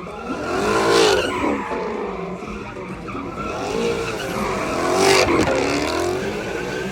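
A car doing a burnout or donuts: the engine revs and the tyres squeal. The pitch rises and falls in sweeps, loudest about a second in and again about five seconds in.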